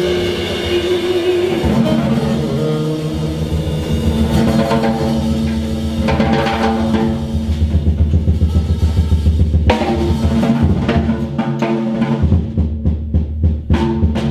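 Live jazz band playing an instrumental passage with a drum kit, sustained pitched notes over the drums. The drum strokes come thicker and faster near the end.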